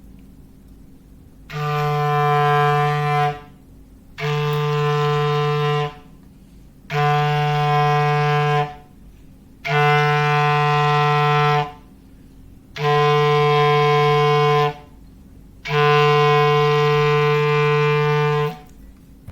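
A clarinet sounding a foghorn call: one low note held steady for two to three seconds, six times over with short breaks between.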